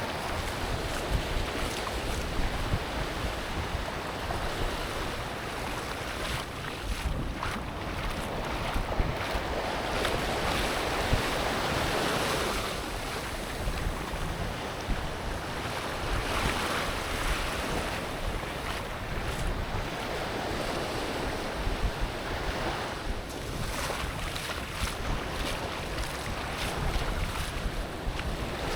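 Ocean surf washing onto a beach, swelling and fading every several seconds, with wind rumbling on the microphone.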